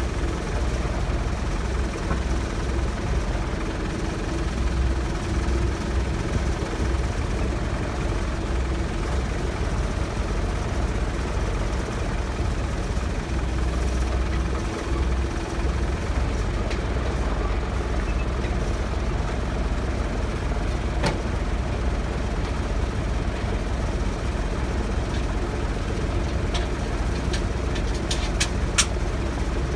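Large diesel engine idling steadily with a deep drone, and a few sharp clicks near the end.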